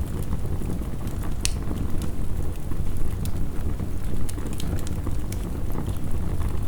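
Wood fire crackling, with irregular sharp pops, the loudest about one and a half seconds in, over a steady low rush of heavy rain.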